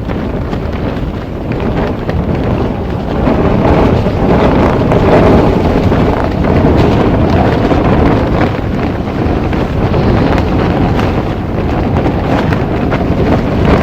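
Strong gusting wind blowing hard against the microphone, a loud continuous rush that swells from about three or four seconds in.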